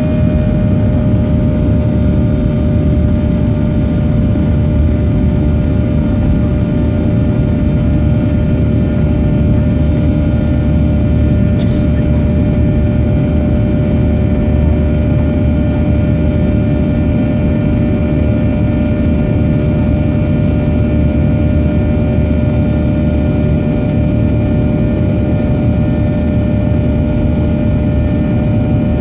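Boeing 737-800's CFM56 jet engines running steadily at high power, a loud constant roar with several steady whining tones over it, heard from inside the cabin.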